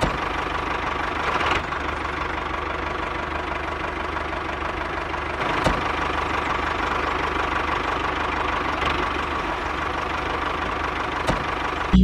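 An engine running steadily at idle, with a few sharp clicks about halfway through and near the end.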